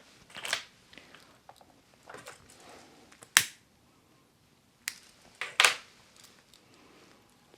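Makeup tools being handled up close: a few sharp clicks and taps, the loudest about three and a half seconds in and two more around five seconds, between faint rustling.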